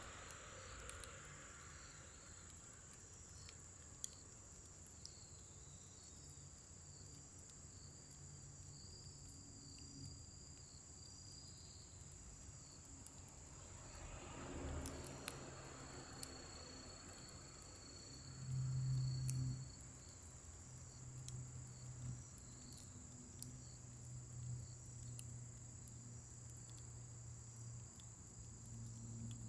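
Crickets trilling steadily, with scattered pops and crackles from a scrap-wood fire burning in a fire pit. A brief low rumble comes about two-thirds of the way through.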